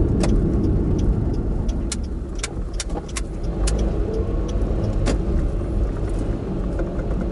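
A car driving, heard from inside the cabin: a steady low rumble of engine and road noise. Several sharp clicks or knocks fall irregularly through the first five seconds or so.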